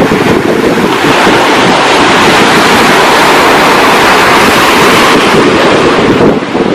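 Ocean waves breaking on a shore: a wave's rushing wash swells about a second in and fades near the end, with wind buffeting the microphone.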